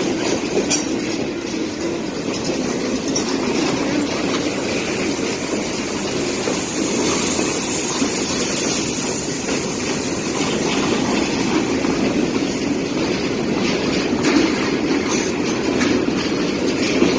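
Hopper cars of a long freight train rolling past close by: a steady rumble of steel wheels on rail with scattered clicks over rail joints. A faint high-pitched wheel squeal comes in for a few seconds midway.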